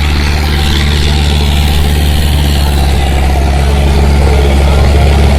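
Sonalika 750 tractor's diesel engine running steadily under heavy load while pulling two harrows, growing slightly louder.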